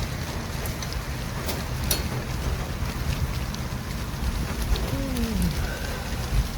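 City traffic ambience: a steady low rumble and hiss of passing vehicles, with scattered faint ticks. About five seconds in, a short tone falls in pitch over half a second.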